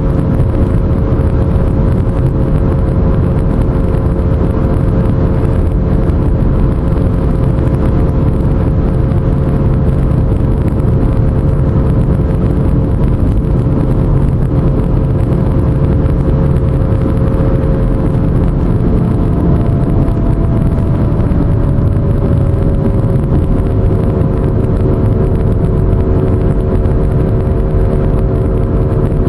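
Pontiac G5 driving, with a loud, steady low rumble and a droning hum that the owner likens to an airplane and suspects is a bad wheel bearing. The hum drops a little in pitch a bit past the middle.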